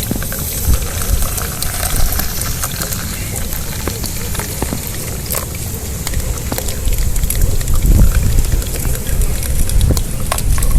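Water being poured through a cloth coffee strainer at a campfire, over a steady low rumble with scattered small clicks.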